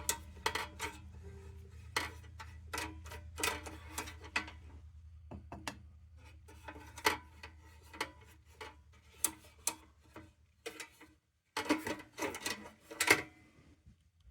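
Irregular light clicks and taps as a tin lantern is handled and a brush works treatment into its seams, with a low steady hum underneath that stops about eleven seconds in.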